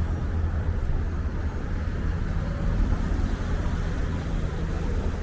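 Strong wind buffeting the microphone: a steady, heavy low rumble with a rushing haze above it.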